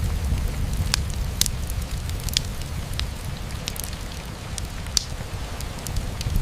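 Steady rain falling on a window pane, mixed with a wood fire burning in a fireplace. Under a constant low rumble and hiss come scattered sharp crackles and snaps, a few louder ones standing out.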